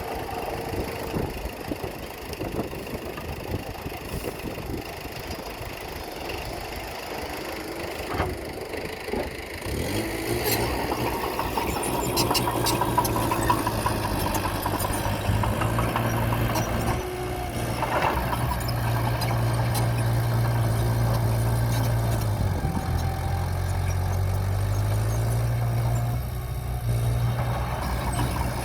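Diesel engine of heavy earthmoving machinery running. It idles with a rough, knocking rumble for about the first ten seconds, then revs up to a louder, steady drone that shifts in pitch near the end.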